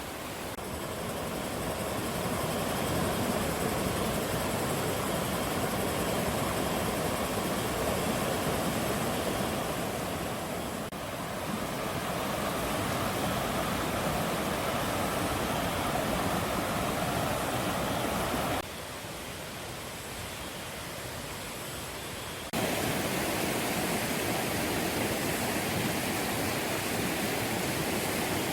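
Clear mountain stream rushing and splashing over rocks, a steady watery rush. About two-thirds of the way through it suddenly drops quieter and duller for a few seconds, then jumps back to full strength.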